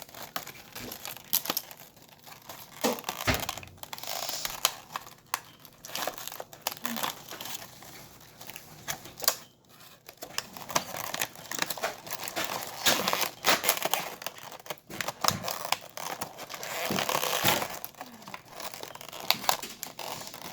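Hot Wheels toy car packaging being handled and opened: plastic and cardboard crinkling and tearing, with many sharp clicks and snaps.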